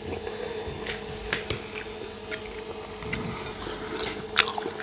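A person chewing a mouthful of pasta with fried pork, with short wet mouth clicks and smacks now and then over a steady low hum.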